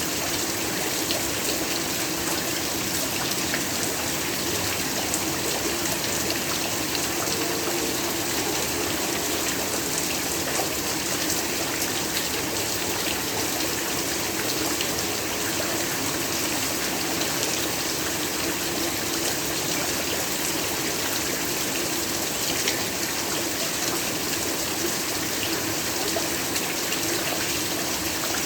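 Steady heavy rainfall, a dense even hiss of many drops with fine pattering throughout.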